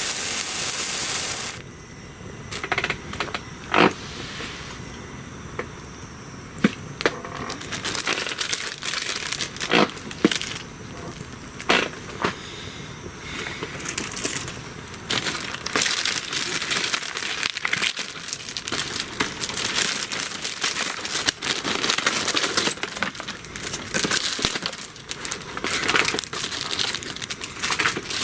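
A wood bonfire crackling, with irregular sharp pops and snaps. A loud hiss cuts off about a second and a half in.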